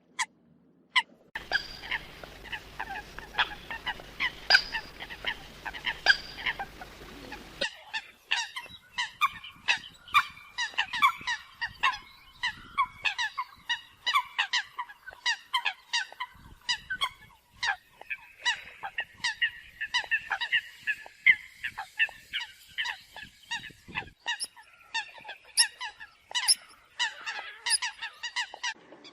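Eurasian coots calling: a dense, rapid run of short, sharp calls from several birds overlapping. The recording cuts abruptly a little over a second in and again near eight seconds.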